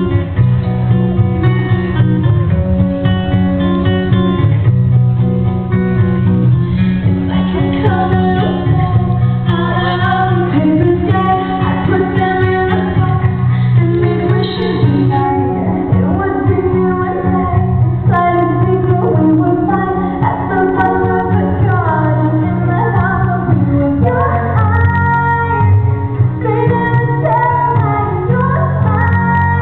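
Live pop song performance: female vocals singing a melody over acoustic guitar strumming and a steady low accompaniment.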